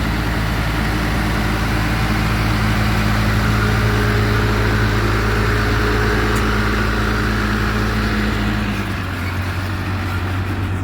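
Truck engine idling steadily. About nine seconds in its note changes and the low rumble drops.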